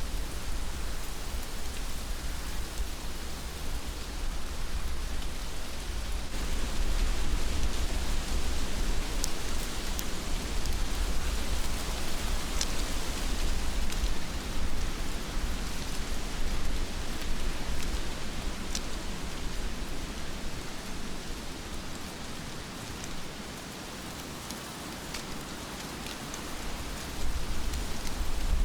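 Heavy rain falling steadily, with occasional sharp drop ticks and a low rumble underneath. It eases a little about three-quarters of the way through and swells again near the end.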